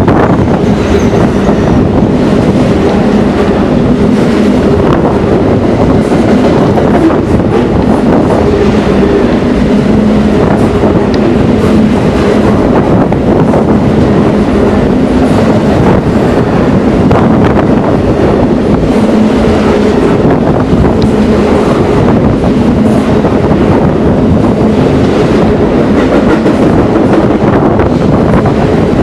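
A train rolling past close by: a loud, steady rumble of wheels on rail with a steady hum and scattered clacks.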